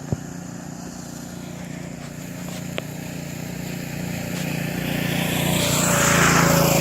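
Coleman CT200U mini bike's 196cc single-cylinder engine running as the bike rides closer, growing louder over the last few seconds. A couple of sharp clicks about a second in and near three seconds in.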